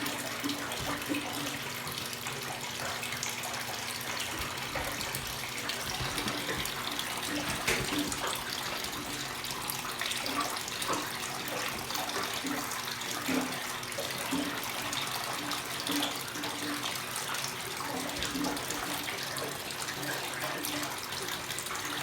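Water rushing steadily into a top-loading washing machine's tub as it fills, with the low steady hum of the other washer's drain pump underneath.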